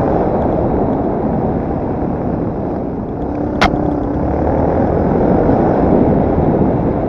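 Yamaha TT250R's single-cylinder four-stroke engine running while the bike is ridden, under a dense rushing noise, with one sharp click about halfway through.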